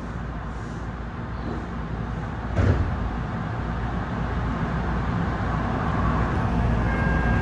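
Tokyu 8500 series electric train running, heard from inside the lead car: a steady low rumble that grows gradually louder, with a single knock about two and a half seconds in.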